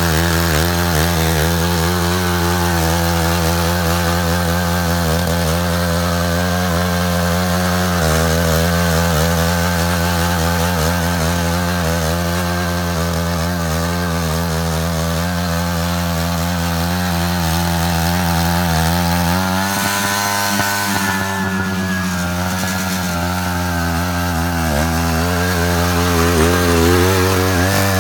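Matsuda walk-behind power tiller's small engine running steadily while cutting a ditch in the soil. Its pitch rises for a couple of seconds about two-thirds of the way through and dips briefly soon after, as the load on the engine changes.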